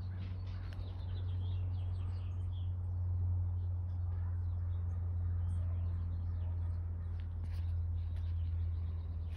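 Small birds chirping in short calls over a steady low hum.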